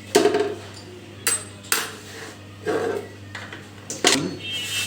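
Metal tools and machine parts clanking and knocking against each other: about five separate hits spread over the few seconds, over a steady low hum. A faint high ringing tone comes in near the end.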